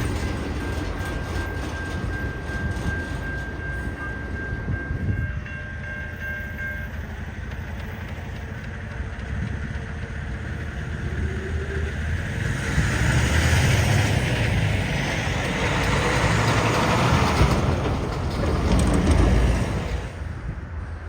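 Freight cars of a long CN freight train rolling past, a steady rumble of wheels on rail with a thin, steady wheel squeal for the first several seconds. The rushing wheel noise grows louder in the second half, then drops off just before the end.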